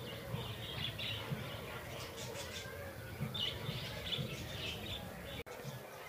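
Birds chirping in many quick, short, high notes, over a steady low background rumble. The sound drops out for an instant about five and a half seconds in.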